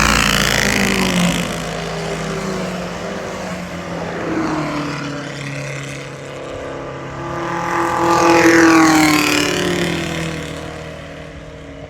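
Vintage sports cars racing past at speed, engines at full throttle, one after another. The loudest passes come at the start and again about three-quarters of the way through, each engine note dropping in pitch as the car goes by, and the sound fades away near the end.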